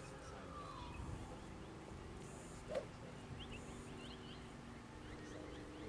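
Faint birdsong: a couple of falling whistles near the start and a run of short, high chirps around the middle. A single sharp click, the loudest sound, comes a little before the chirps.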